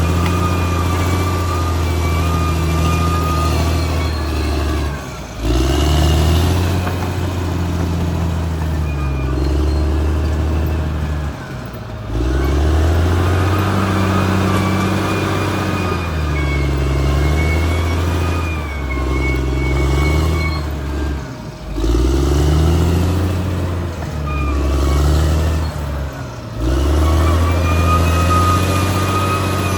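Caterpillar D6R XL bulldozer's diesel engine running under load with a high whine over it. The engine note dips and climbs back again about four times, with short drops in loudness.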